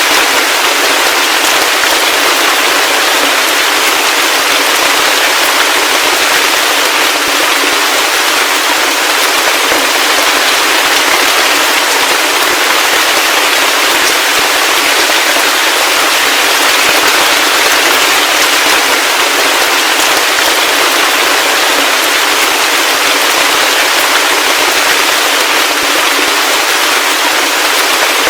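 Heavy rain falling steadily: a dense, unbroken patter of countless drops, with almost no low rumble.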